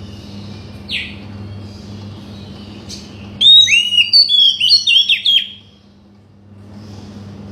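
Oriental magpie-robin (kacer) singing: one falling whistle about a second in, a short note near three seconds, then a loud two-second run of varied whistles and slurred notes, over a steady low hum.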